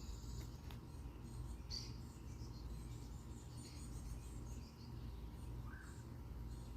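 Faint, scattered high bird chirps over a steady low background rumble.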